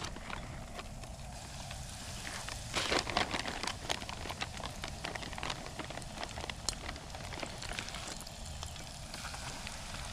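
Breaded catfish frying in a camping pot: a steady sizzle with many small crackles and pops, busiest about three seconds in.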